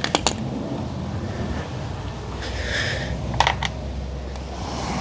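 Sharp clicks and light rattling of a plastic wiring-harness connector being unclipped and moved aside in an engine bay: a few clicks right at the start, a brief rustle, and two more clicks about three and a half seconds in, over a low steady hum.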